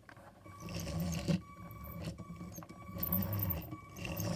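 LEGO Power Functions train motor running with its wheels removed, giving a thin electric whine over a low rumbling hum that swells and fades, with a sharp click about a second in.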